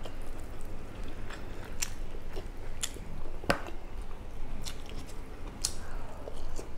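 A person chewing and eating by hand, with wet mouth sounds and scattered sharp clicks.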